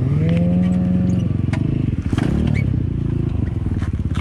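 Motorcycle engine accelerating through the gears: its pitch rises and holds, drops at a shift about a second and a half in, then climbs again.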